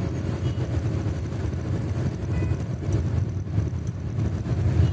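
Self-loading concrete mixer's diesel engine running as the truck drives along the road, a steady low rumble.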